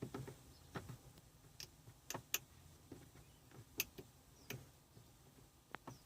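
Faint, irregular clicks and taps, about a dozen short sharp ones spread unevenly over a few seconds.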